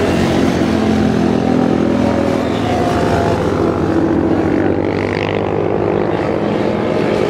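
Several motorcycles running past together, their engines overlapping into a steady loud drone with shifting pitches.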